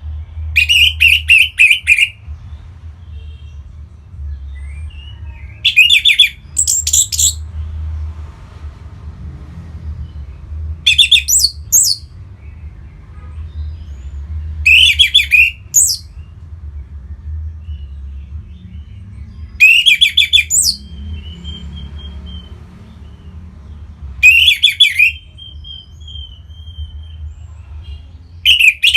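Orange-headed thrush singing in short, loud, twittering phrases, each lasting a second or two and repeated about every four to five seconds. A steady low hum runs underneath.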